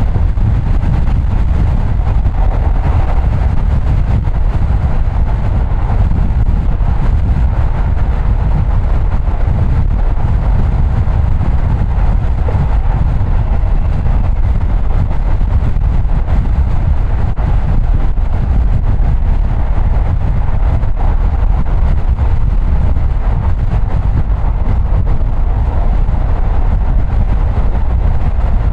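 Car driving along at a steady pace: an even, low rumble of road and engine noise with no breaks or distinct events.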